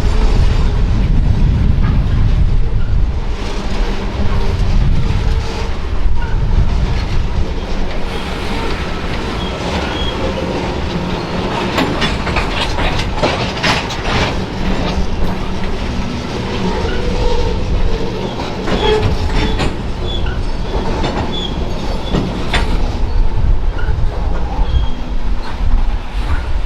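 Freight train rolling past: a steady low rumble with wheels clicking over rail joints, and brief wheel squeals now and then.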